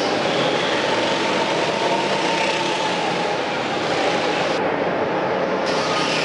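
Motor vehicle engines running steadily: a constant rushing noise with a faint engine whine drifting in pitch.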